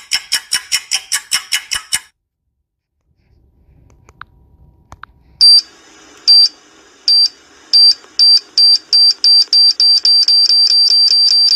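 Electronic beeping: a quick run of about seven beeps a second stops about two seconds in. After a gap, a high beep returns, speeding up steadily until it becomes one continuous tone near the end, like a countdown-timer sound effect.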